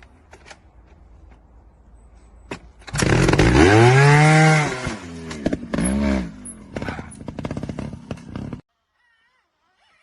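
Motorcycle engine revved hard about three seconds in, its pitch climbing and then falling back, followed by a second, shorter blip of the throttle and lighter engine noise. The sound then cuts off abruptly near the end.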